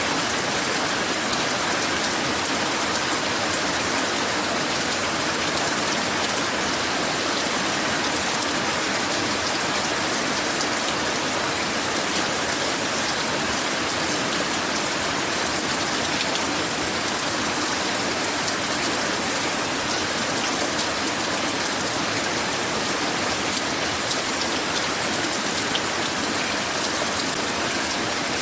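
Rain falling steadily in a light shower, an even patter with no let-up.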